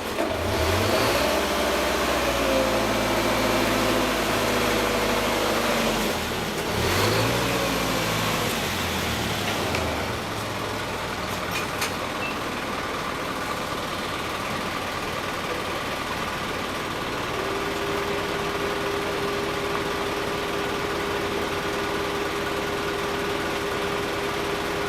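A motor vehicle's engine revs up and eases off twice over about ten seconds, then runs steadily and a little quieter. A steady whine joins in for the last several seconds.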